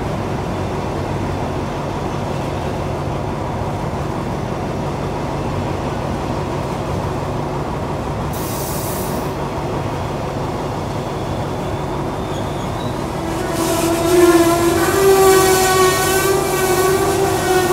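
Passenger coaches rolling slowly past on the adjacent track with a steady rail rumble, a short hiss of air about eight seconds in. From about 13 seconds the coaches' brakes set up a loud wavering squeal as the express slows to a stop on the siding.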